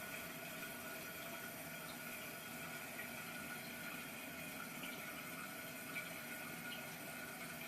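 A toilet tank refilling through a newly installed fill valve: a steady hiss and trickle of water flowing into the tank.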